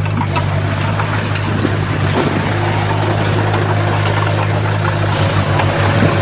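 Heavy diesel engine of construction machinery running steadily under load, a constant low hum with a noisy rumble over it.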